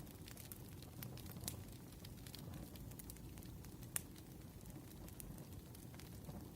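Wood fire crackling: irregular sharp pops and snaps, the loudest about four seconds in, over a faint low rumble.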